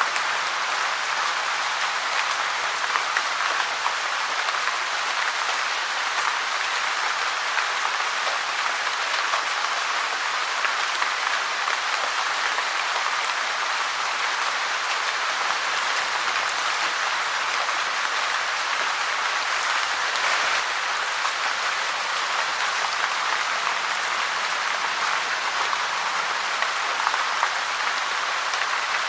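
Steady rain: a dense, even patter of many drops, unchanging throughout.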